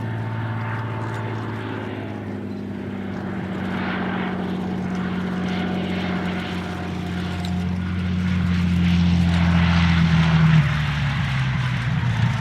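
Hawker Hurricane's Rolls-Royce Merlin V12 engine running steadily in flight, growing louder as the aircraft approaches. About ten seconds in, the note drops sharply in pitch as it passes by.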